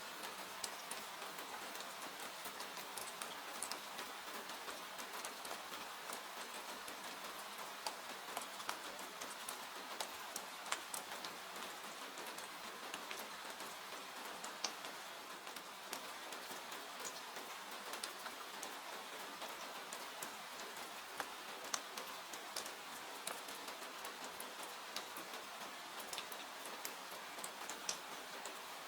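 Steady rain hiss mixed with the irregular crackle and pop of a wood fire burning in a fireplace.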